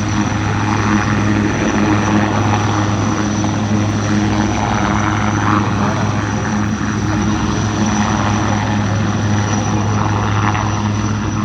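Military helicopter flying in a display: a loud, steady rotor and engine sound with a constant low hum.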